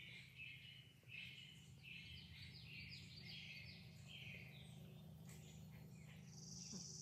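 Faint evening ambience: a bird calling in a run of short repeated chirps over a low steady hum, with a steady high insect trill coming in near the end.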